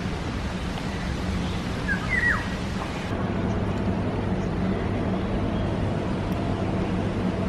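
A few short bird chirps about two seconds in, over a steady rushing background noise with a low hum.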